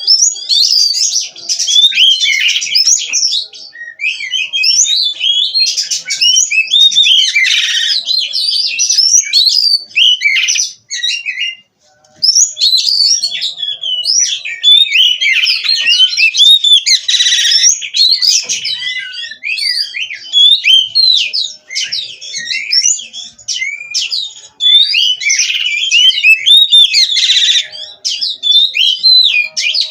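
Oriental magpie-robin (kacer) singing a fast, varied, nonstop song of high whistles and chirps, with a short break about eleven seconds in.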